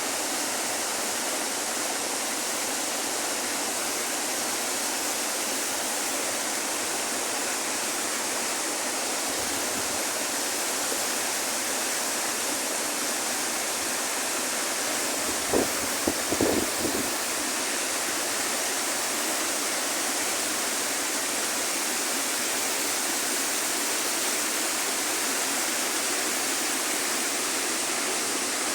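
River water rushing steadily in a tropical jungle. About halfway through, three or four short low knocks stand out briefly over the flow.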